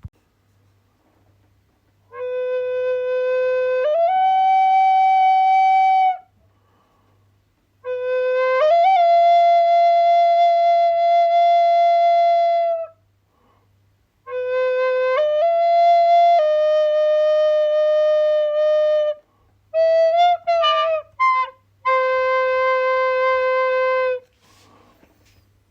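A solo flute playing slow phrases of long held notes, each phrase stepping upward in pitch, with short pauses between them for breath. About twenty seconds in comes a quick run of short notes before a final long held note.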